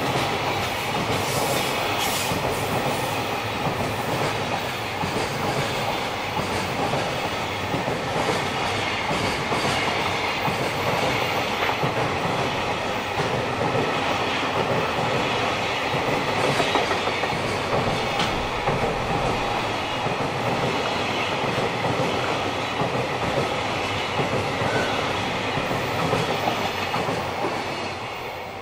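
JR Freight container train rolling past: a steady rumble and rattle of the container flatcars' wheels on the rails, with occasional sharp clacks. It begins to fade near the end as the last wagons go by.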